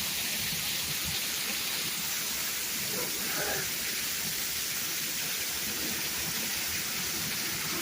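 Heavy downpour of rain, a steady even hiss of rain on surfaces.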